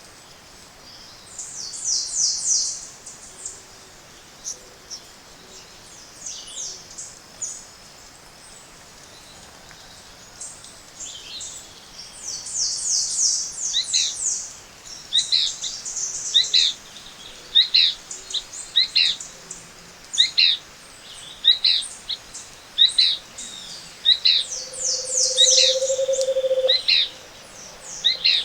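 Tropical forest birds singing in a morning chorus. Three bursts of rapid high trills stand out, along with a long run of repeated whistled notes, each sliding downward, about one a second from midway on. A low hoot-like note is held for about two seconds near the end.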